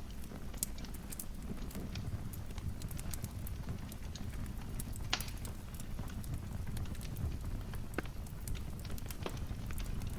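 Wood fire crackling in a fireplace: irregular sharp pops and snaps over a steady low rumble of the flames, with one louder crack about halfway through.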